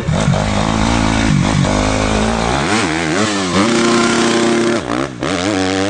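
Dirt bike engine running, then revved up and down several times from about two and a half seconds in, held at high revs for about a second, revved again, and falling away at the end.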